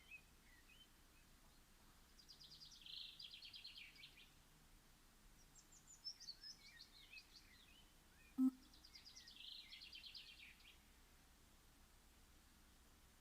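Faint songbird song in a quiet garden: three rapid, high trilled phrases about two seconds each, with a few scattered chirps. A single sharp click about eight and a half seconds in is the loudest sound.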